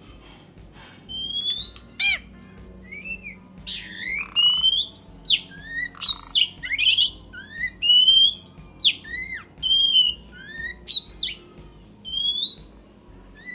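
Pet oriental magpie-robin and Asian pied starling singing and calling against each other, a rapid run of loud whistled notes, short rising and falling glides and sharp downward squawks.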